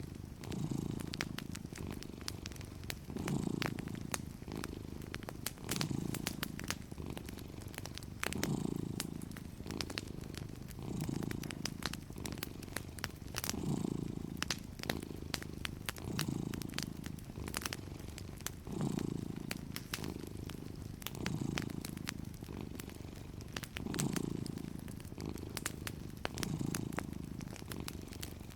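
Cat purring steadily, swelling with each breath about every two and a half seconds, over the frequent small pops and crackles of a fireplace.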